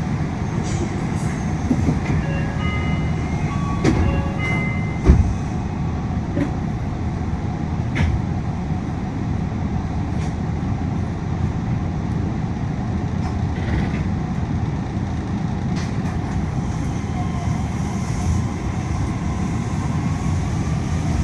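Yui Rail monorail car running along its guideway, heard from inside the cabin: a steady low rumble of the running gear mixed with air-conditioning noise, with a few sharp knocks about four, five and eight seconds in.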